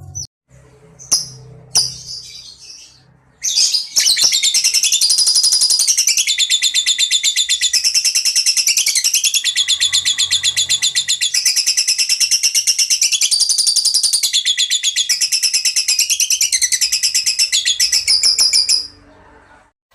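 A songbird singing a loud, very rapid, unbroken trill that switches back and forth between a high and a higher pitch in phrases of a second or two. It starts about three and a half seconds in and stops shortly before the end. A few faint clicks come before it.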